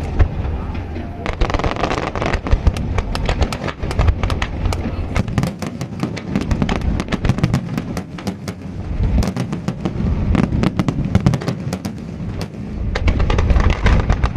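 Fireworks display: many shells bursting in quick succession, a dense run of crackling pops over low booms.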